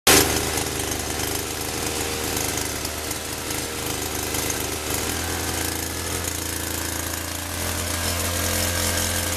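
A small motor running steadily, cutting in abruptly at the start.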